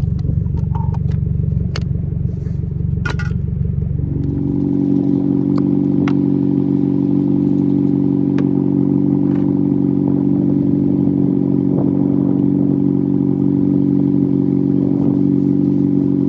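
Car engine running steadily, with a few clicks and some clatter over the first few seconds. About four seconds in, the drone changes abruptly to a higher, even hum that holds steady.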